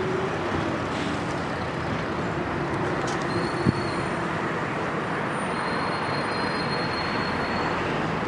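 An electric train approaching along the tracks at a distance over a steady city traffic rumble, with a thin, high wheel squeal through the middle and one sharp click about three and a half seconds in.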